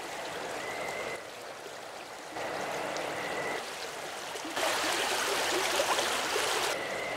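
Running water of a stream, a steady hiss that changes level abruptly several times as the track is cut, with a short high steady whistle heard a few times over it.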